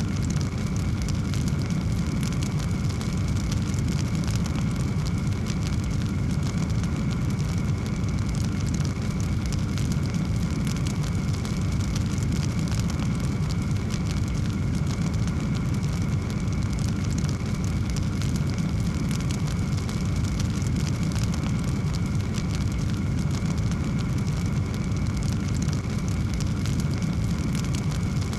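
Wood fire burning in a fireplace: a steady low rumble with dense, continuous fine crackling.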